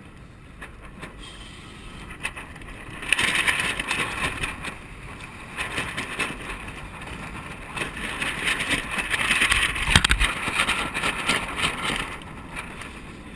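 Water rushing and splashing along the hull of a sailing kayak under way in a strong wind, with wind on the microphone. The water noise swells about three seconds in and eases near the end, with a thump about ten seconds in.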